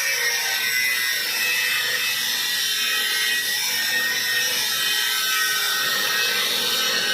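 Power tool running steadily under load, a continuous grinding noise with a faint high whine.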